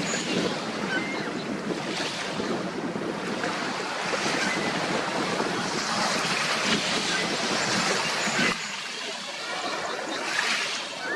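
Steady wash of lake water with wind buffeting the microphone.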